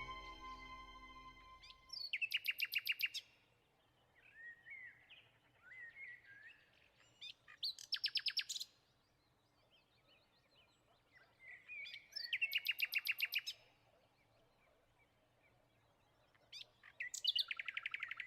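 A songbird singing: a rapid, evenly spaced trill of about a second, repeated four times at roughly five-second intervals, with softer twittering phrases between the trills.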